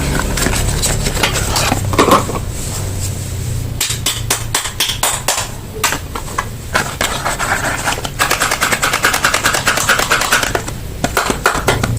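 Soap packaging being unwrapped by hand: rapid crinkling and crackling of the wrapper in dense runs, with brief pauses.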